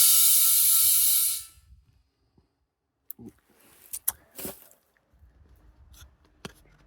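Loud steady hiss of compressed air in a pneumatic launcher, cutting off about a second and a half in. A few faint clicks and knocks of handling follow.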